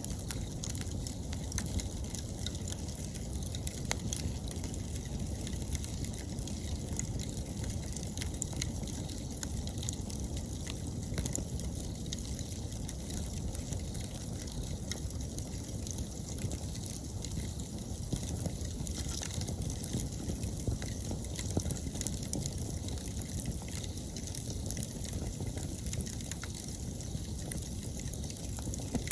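Wood bonfire burning with a steady low rush and scattered sharp crackles and pops, while autumn insects chirp steadily in the high range.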